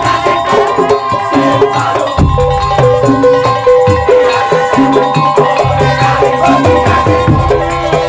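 Madurese tongtong (daul) music played live: loud drums and shaken and struck percussion keep a busy rhythm, with long held melodic notes over it.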